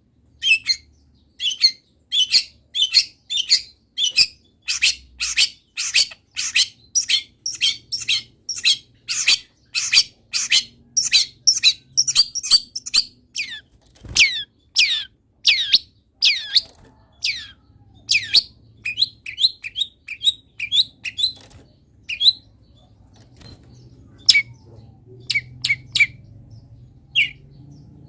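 Long-tailed shrike (cendet) singing in full voice, a song packed with imitations of wild birds: a long run of short, sharp, high notes, each sweeping quickly downward, two or three a second. The notes thin out into scattered calls for the last third.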